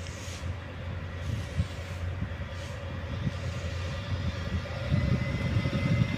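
Train moving through the station: a steady low rumble with a thin whine over it, a few light knocks from the wheels, growing louder near the end.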